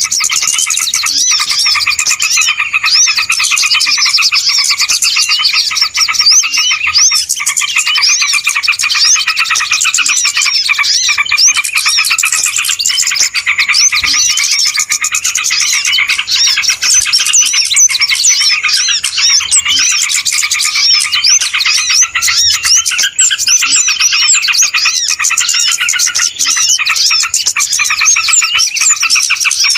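Bird-lure (pikat) recording of a noisy chorus of many small birds chirping and twittering at once, a dense, unbroken stream of quick high calls overlapping throughout.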